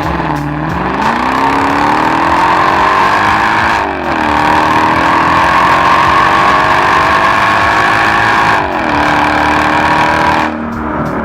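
Mercedes-Benz E55 AMG's supercharged V8, running without catalytic converters, accelerating hard through the gears: the engine note climbs in pitch, drops sharply at upshifts about four and nine seconds in, and the level falls away shortly before the end.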